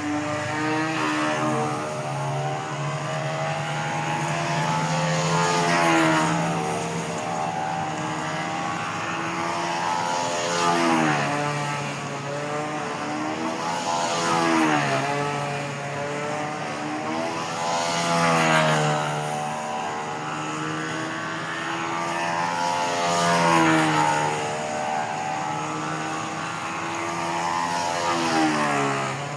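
Fora .68 two-stroke nitro engine of a control-line stunt model plane running steadily at high speed. Its pitch swoops down and its loudness peaks about every four to five seconds as the plane circles past, six times over.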